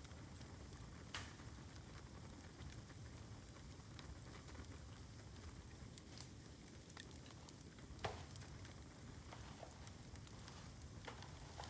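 Bamboo burning in an open bonfire: a faint steady crackle and hiss with a few sharp pops, about a second in, near 8 seconds and near 11 seconds.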